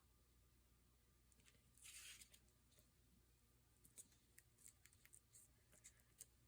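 Near silence with faint paper handling: a short rustle of paper about two seconds in, then scattered light ticks and clicks.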